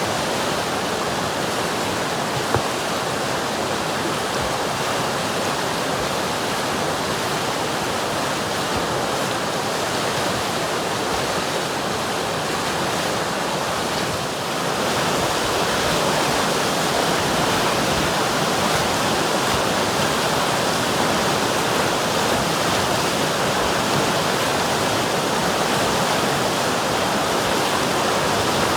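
River water flowing and rushing in a continuous, steady wash, a little louder from about halfway through.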